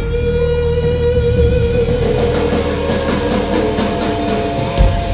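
Live rock band playing the end of a song: a guitar holds a long note over bass and drums. About halfway through comes a quick run of drum hits.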